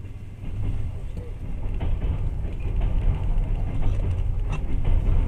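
Passenger train running, heard from inside the carriage: a steady low rumble with irregular clacks and rattles, getting louder about half a second in.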